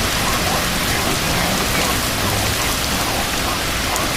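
Heavy wind-driven rain of a severe thunderstorm microburst, a steady, even rush of downpour and wind.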